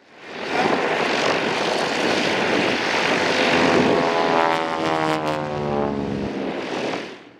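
Propeller airplanes in formation flying past, their engines a steady roar whose pitch slides down from about halfway through as they go by. The sound fades in at the start and out near the end.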